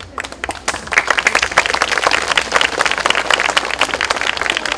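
Audience applauding: scattered claps that swell into dense applause about a second in, starting to thin out near the end.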